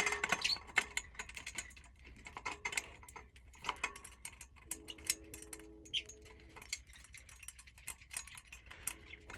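Irregular small metal clicks and clinks as a screw and metal bird-cage parts are worked by hand, thickest in the first second and sparser after.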